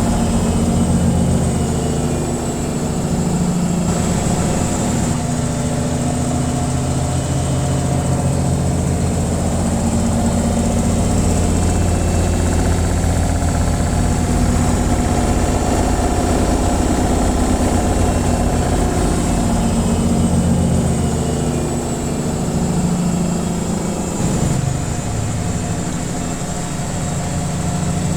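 Washing machine running its spin cycle: a steady motor hum and drum rumble with a faint high whine, swelling and easing slightly.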